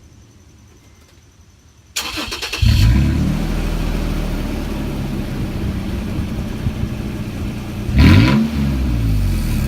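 2013 Toyota Tacoma engine running with no exhaust fitted. The starter cranks it about two seconds in, and it catches, flares, then settles to a loud, steady idle. Near the end a quick throttle blip rises and falls back.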